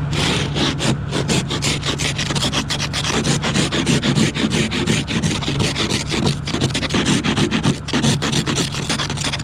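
Ice scraper rasping ice and snow off a vehicle's glass in quick repeated strokes, about three a second, over the steady hum of an idling engine.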